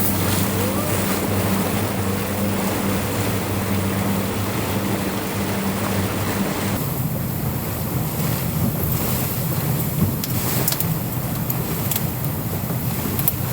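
Boat engine running with a steady low hum over rushing water and wind noise; the engine's note shifts about seven seconds in, and a few sharp clicks come near the end.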